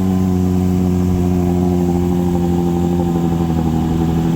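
Small outboard motor pushing a boat along at speed, running steadily with its pitch sinking slightly.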